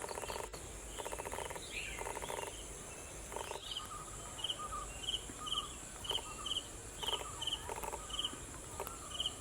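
Steady high-pitched drone of insects with bird calls over it: a few buzzy, trilled calls in the first couple of seconds, then a run of short repeated chirps about two a second.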